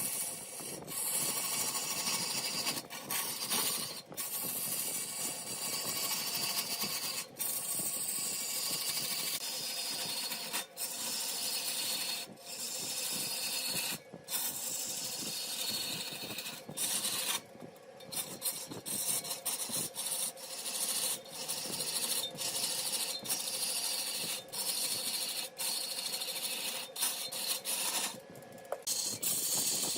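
Cutting tool scraping and shaving spinning mahogany on a wood lathe: a steady rasping hiss over a faint steady hum. The cut breaks off briefly every few seconds, with longer breaks near the middle and near the end.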